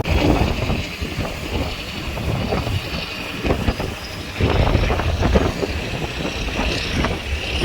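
A car driving along: a steady rumble of engine and road noise that rises and falls unevenly.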